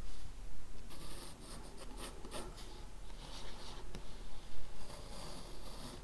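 Handwriting on paper: quick scratchy strokes in short runs with brief pauses between, over a steady low room hum.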